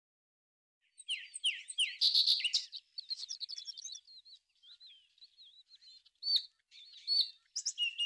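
Small songbirds chirping and twittering, a busy mix of short high calls and quick downward-sweeping notes that begins about a second in.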